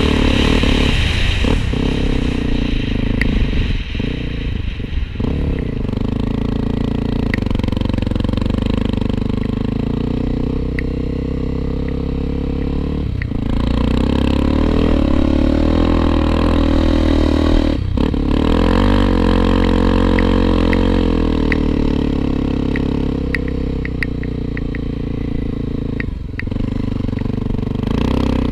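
Honda XR250 Tornado single-cylinder trail motorcycle engine running while riding off-road, its pitch rising and falling with the throttle, with scattered light ticks and rattles.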